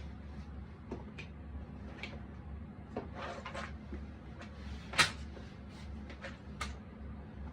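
Cardboard jigsaw puzzle pieces being handled: scattered light clicks and taps as pieces are picked up, set down and pressed into place, a short rustle of pieces about three seconds in and one sharper click about five seconds in. A steady low hum runs underneath.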